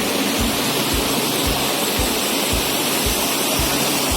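Steady rushing water, with a low thump repeating about twice a second underneath.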